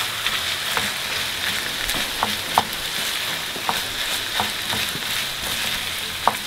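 Pork mince and diced onion sizzling in a frying pan, a steady hiss, while a wooden spoon stirs them with light scraping taps against the pan; two sharper taps stand out, one a little before the middle and one near the end.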